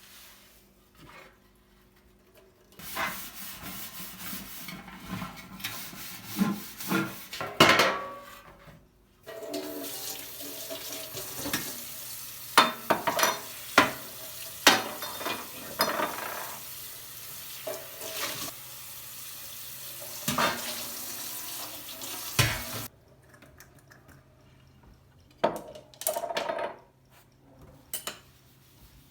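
Kitchen tap running into a sink while dishes and cutlery are washed, with frequent sharp clinks and knocks. The water stops suddenly a few seconds before the end, leaving only a few scattered clinks.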